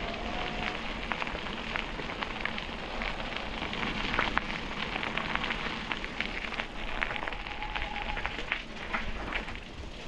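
Bicycle rolling along a canal towpath: a steady crackling rush of tyres on the path surface, with many small clicks and ticks throughout.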